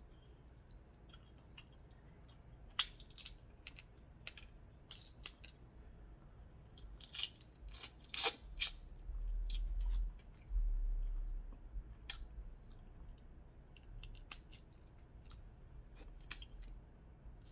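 Crab leg shells cracking and snapping open in scattered sharp clicks, with a low rumble for a few seconds near the middle.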